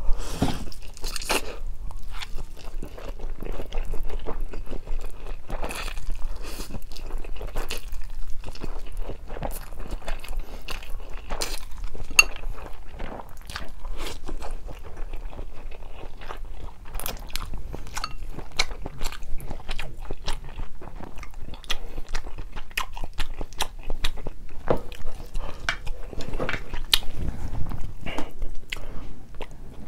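Close-miked chewing of spicy stir-fried instant noodles: a continuous run of wet mouth clicks and smacks.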